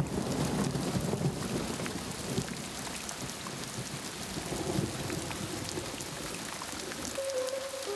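Rain pouring down, with a low rumble that fades over the first few seconds. A few notes of music come in near the end.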